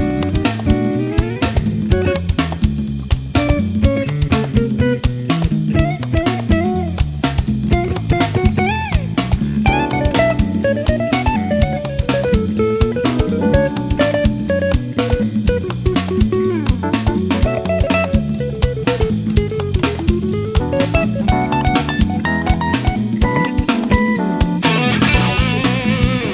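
Instrumental band music: a bending lead guitar line over bass and drum kit, with the cymbals brightening near the end.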